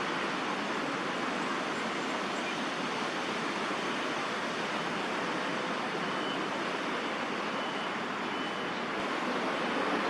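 Steady, even hum of distant city traffic, with no separate sounds standing out.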